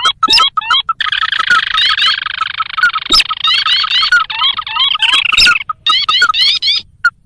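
Lure recording of sintar crakes calling: many quick rising notes repeated rapidly and overlapping into a dense chorus, over a fast, even run of short pulsed notes. The calls break off briefly near the end.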